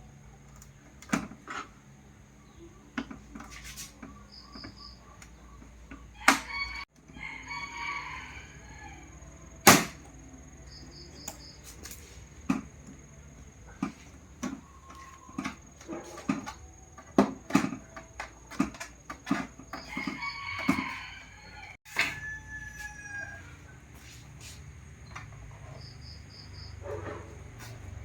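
Two long animal calls, each about two seconds, amid scattered sharp clicks and knocks.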